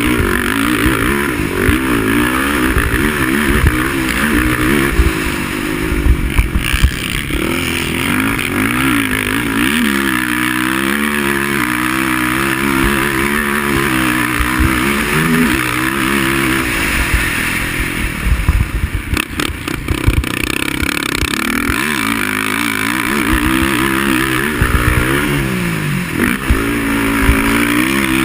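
Racing quad (ATV) engine revving up and down repeatedly as it accelerates and backs off around the track, with a few clattering knocks around a third of the way in and again past the middle.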